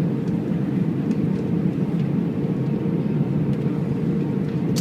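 Steady cabin noise inside an Airbus A319 in flight: an even, low rush of engine and airflow noise with no change in pitch or level.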